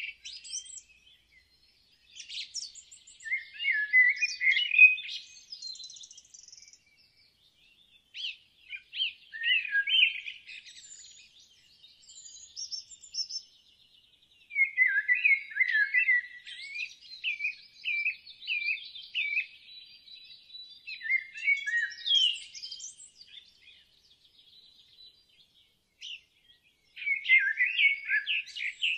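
Birds singing: several bouts of quick, high chirping notes, separated by short pauses.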